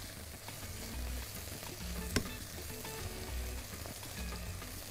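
Chunks of sausage and garlic sizzling in oil in a nonstick frying pan while being stirred with a silicone spatula, with one sharp tap about two seconds in.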